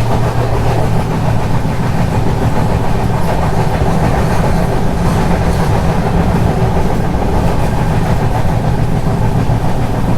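Passenger train running along the track, heard from inside the coach: a steady rumble of wheels on rails.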